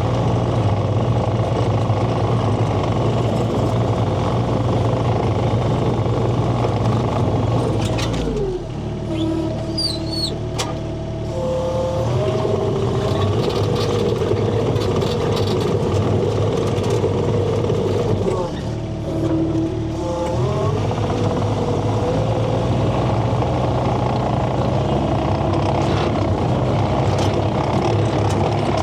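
Skid steer's diesel engine running at high throttle while working. Twice, about eight and eighteen seconds in, it drops to a lower speed for a couple of seconds and then climbs back.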